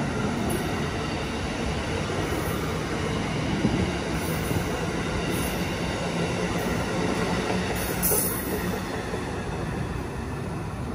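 An Amtrak Northeast Regional train rolls steadily along the track with a continuous rumble of steel wheels on rail. Several brief high squeals cut through it, the strongest about eight seconds in, and the sound eases slightly near the end.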